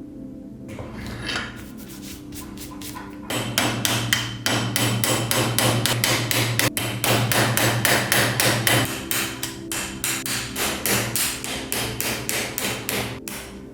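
Metal hammer striking repeatedly and quickly, about four blows a second for roughly ten seconds, starting a few seconds in and stopping just before the end.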